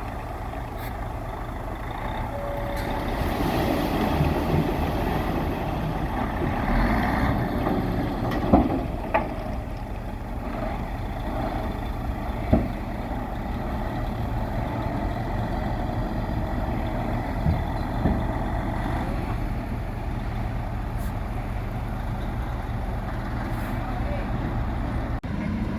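Heavy diesel earthmoving machinery running steadily with a low engine rumble, with a few sharp metal clanks, the loudest about eight and a half and twelve and a half seconds in.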